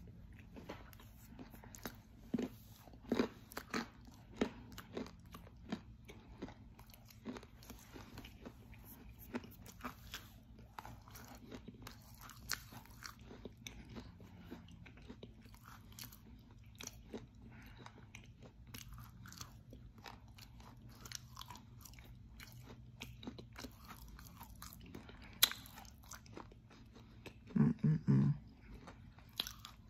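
Close-miked crunching and chewing of dry edible clay, with irregular sharp cracks as pieces are bitten and ground between the teeth; one loud crack comes near the end, followed by a brief low sound from the throat.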